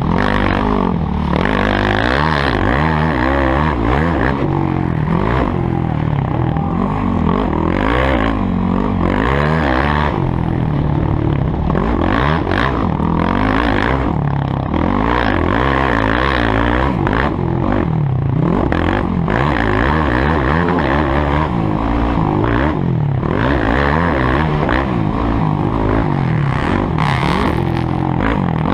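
Motocross motorcycle engines running hard, their pitch rising and falling again and again as they rev up and back off.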